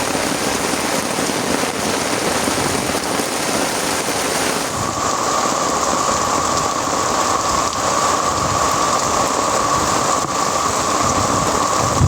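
Rain falling steadily, with a sudden change in its sound a little under halfway through.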